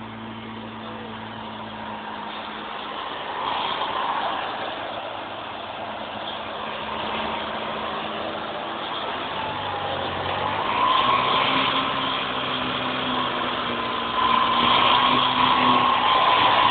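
Supercharged Toyota Corolla Seca engine idling steadily, with a high whine over the engine note that rises slightly about ten seconds in. The sound grows louder toward the end as it is heard close over the open engine bay.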